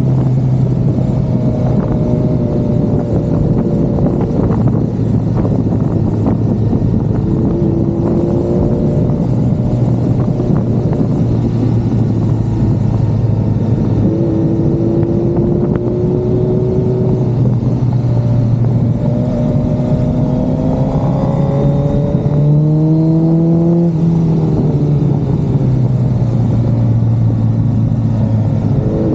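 2022 Suzuki Hayabusa's inline-four engine running at road speed, its note rising and falling a few times with the throttle, over a steady rush of wind.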